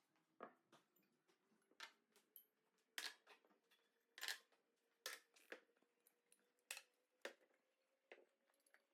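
Light, sharp clicks and taps, about a dozen at uneven intervals, from containers and lids being handled while a pulse cupboard is sorted, over a faint steady hum.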